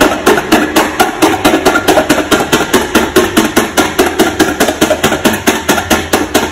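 Rapid, even knocking, about seven strikes a second.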